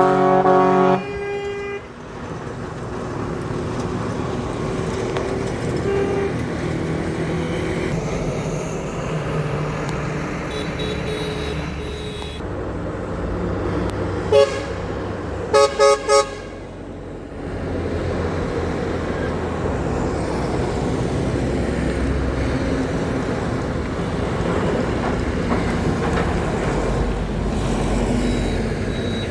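Truck horns sounding over running truck engines and road noise: one long blast at the start, a single short toot about fourteen seconds in, then three quick toots a moment later.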